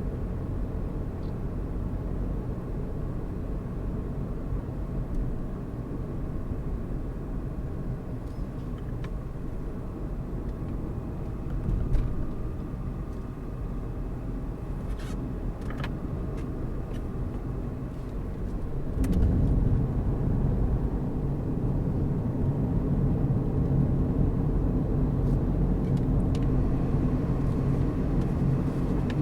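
A car driving, its engine and tyres making a steady low rumble that gets louder about two-thirds of the way through, with a few faint clicks.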